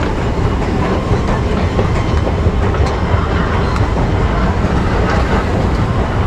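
New York City subway train running, a steady loud rumble with rail clatter and faint clicks.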